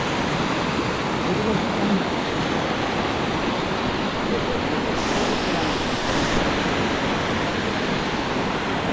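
Waterfall: a steady, loud rush of falling water with no break or change.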